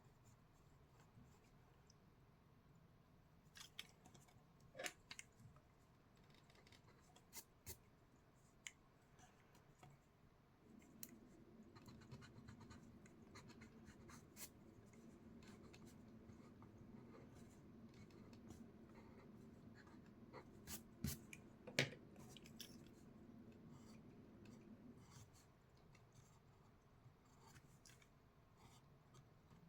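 Faint scratching of drawing strokes on paper, with scattered sharp ticks and taps. A low steady hum comes in about a third of the way through and stops a few seconds before the end.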